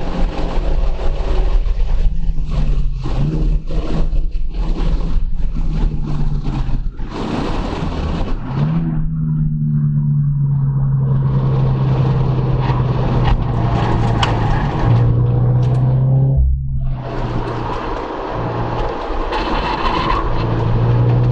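Subaru BRZ's 2.0-litre flat-four engine heard from inside the cabin, pulling hard down the track with tyre and road noise. The engine note cuts out briefly about three-quarters of the way through as the car slows for a corner, then picks up and climbs again.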